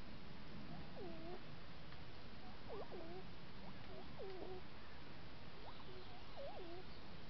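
A bird giving short whistled calls that slide down in pitch, about six in a row at irregular spacing, over the steady hiss of a trail camera's microphone.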